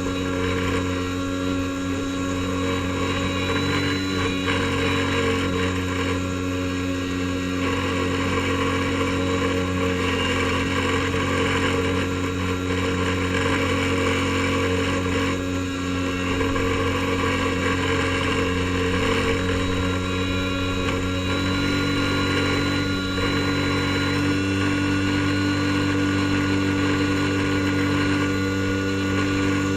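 Airboat engine and propeller running at a steady speed, loud and even throughout.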